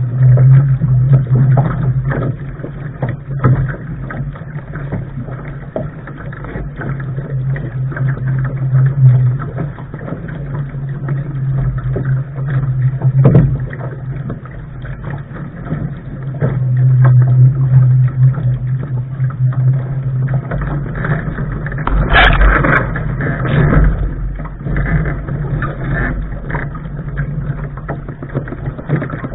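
Wind rumbling on a bow-mounted camera's microphone while a Lark sailing dinghy is under way, over the rush of water along the hull. The rumble comes and goes in long gusts, and a louder burst of noise, like a splash, comes about 22 seconds in.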